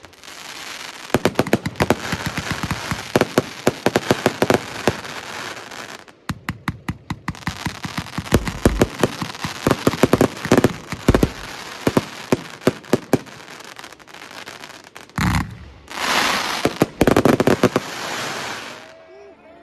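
A 30 mm firework compound battery (the Riakeo/Röder Vollrausch) firing rapid volleys of shots and bursts. There is a short lull about six seconds in, then a dense, loud burst of noise near the end before the firing stops.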